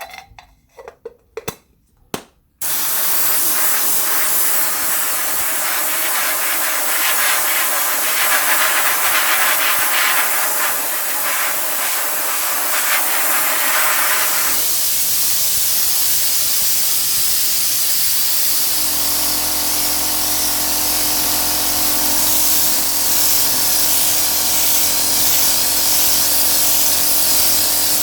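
Paint being sprayed: a few short clicks, then a loud, steady hiss of spray that runs on without a break. About two-thirds of the way in, a low, steady motor hum joins the hiss.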